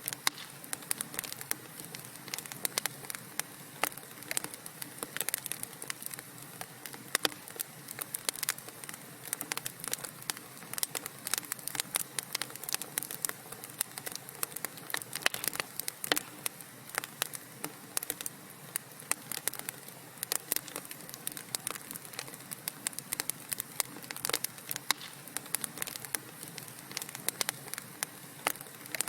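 Wood fire crackling in a fireplace: dense, irregular sharp pops and snaps over a steady low hiss.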